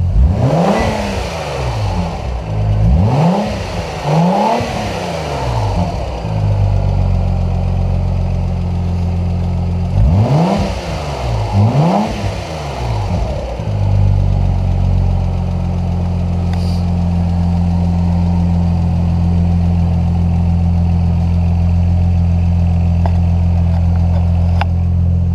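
2003 Audi Allroad's 2.7-litre twin-turbo V6 running and being revved: three quick blips in the first five seconds, two more about ten seconds in, then a steady idle.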